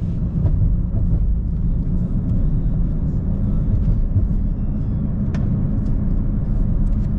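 Steady low rumble of a car on the road, heard from inside the cabin, with a single faint click about five seconds in.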